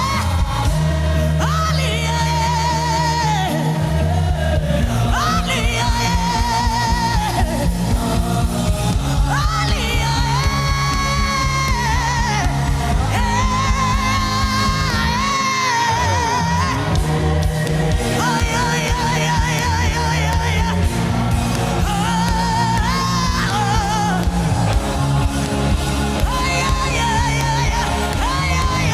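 Gospel worship music: a singer holding long, wavering notes over a band with steady low sustained notes and a regular beat.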